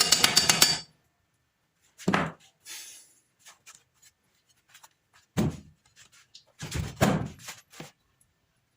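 Background music with a steady beat cuts off abruptly about a second in. It is followed by a few scattered dull thuds and knocks, loudest around two seconds and near the end.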